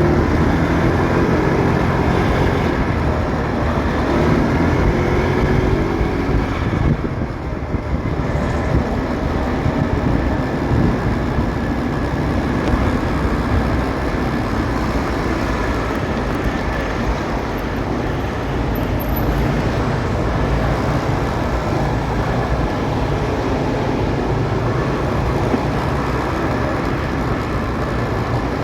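Motorcycle engine running on the move through road traffic, with steady road and traffic noise.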